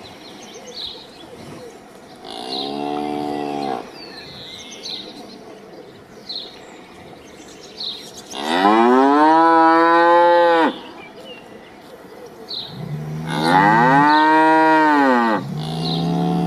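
Cattle mooing: a short, quieter moo about two seconds in, two long, loud moos from about eight seconds in, and a shorter moo starting near the end. Faint high chirps sound in the background.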